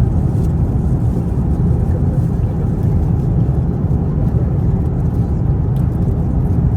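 Steady low rumble of airliner cabin noise inside an Airbus A350-900's economy cabin in cruise: engine and airflow noise with no changes.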